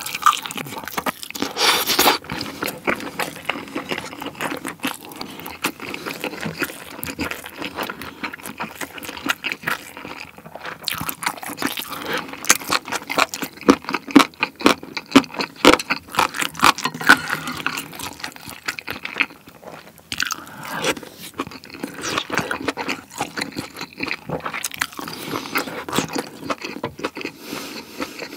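Close-miked eating sounds: a bite into braised beef short rib (galbijjim), then steady chewing with rapid wet smacks and clicks.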